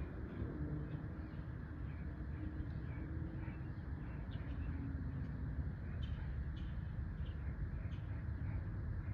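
Small birds chirping now and then, short scattered calls over a steady low rumbling noise.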